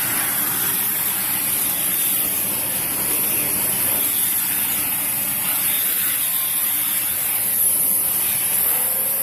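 Dyson Cinetic Big Ball canister vacuum running steadily, its tangle-free turbine tool brushing along carpeted stairs: a constant rush of air with a steady high-pitched whine.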